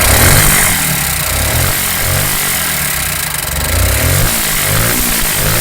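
Bajaj Pulsar NS125's single-cylinder engine running and being revved in short repeated blips. The engine, rebuilt ten days earlier with a new block and head work, sounds bad and smokes white; the mechanic suspects the crank, connecting rod, a wrongly fitted piston or timing out.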